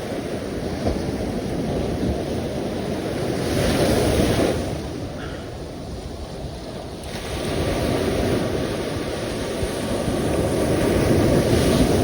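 Sea waves breaking and washing on the shore, the surf swelling to a peak about four seconds in, easing off, then building again to a second surge near the end.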